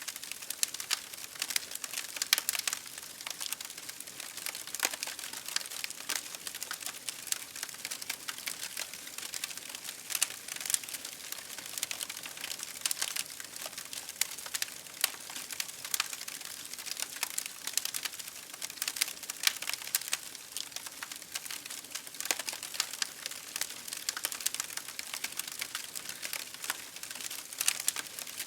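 Campfire burning, wood crackling and popping in a dense, irregular stream of small snaps.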